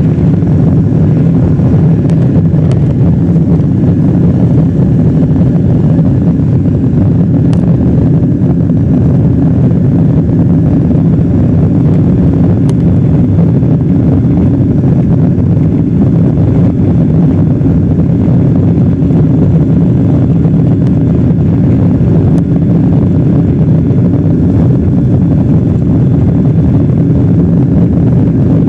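Steady, loud cabin noise inside a Boeing 777-200 airliner: a constant deep roar of the engines and airflow with no change in pitch.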